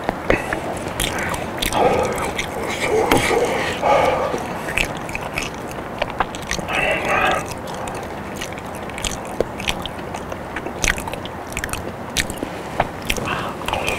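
Close-miked eating of a soft boiled potato: biting, mushy chewing and lip smacking, with many small wet mouth clicks.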